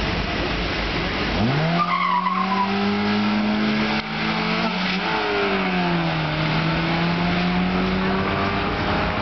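Race car engine launching hard about a second and a half in, its pitch climbing steeply, with a brief tyre squeal just after. The engine then runs at high revs. Its pitch dips about five seconds in and climbs again.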